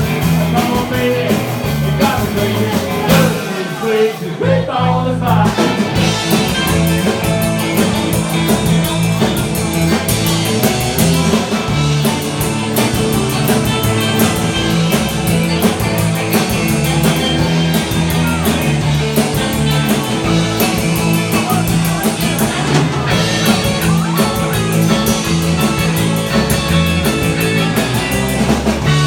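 Rock and roll band playing an instrumental stretch with electric guitar, bass and a steady drum beat. About four seconds in, the bass and drums drop out briefly, then the full band comes back in.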